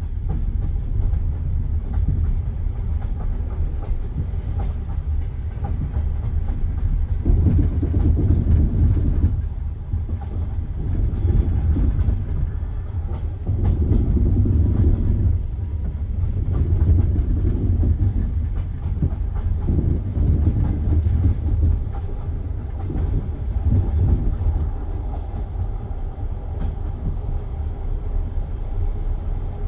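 Railway noise from a passenger train carriage: a steady low rumble that swells and fades about every three seconds.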